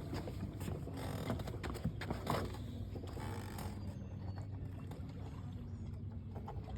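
Creaks, scrapes and small knocks of a freshly caught largemouth bass being handled and measured in a fishing boat, over a steady low hum. The noisier handling comes in the first half, and it grows quieter after about four seconds.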